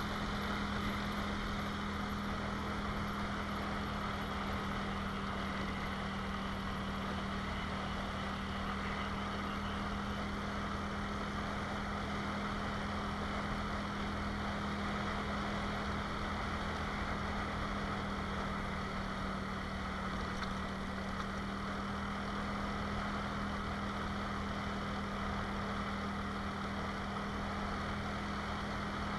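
Motorcycle engine running at a steady cruise, its note holding one pitch with no revving, under a constant rush of wind and road noise.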